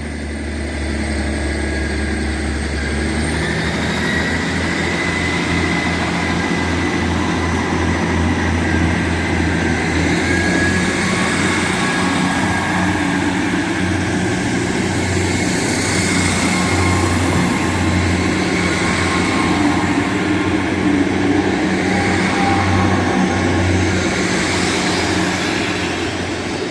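Three coupled ScotRail Class 158 diesel multiple units pulling away from the platform, their underfloor diesel engines running under load with a steady low rumble. A high whine rises in pitch over the first ten seconds or so as the train gathers speed.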